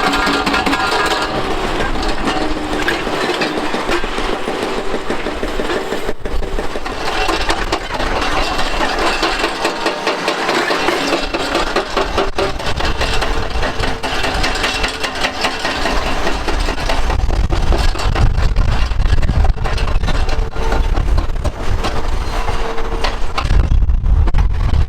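Liebherr excavators working on a demolition site: diesel engines running under load while concrete is broken up, with irregular cracking and clattering of rubble. A deep engine rumble grows louder over the last third.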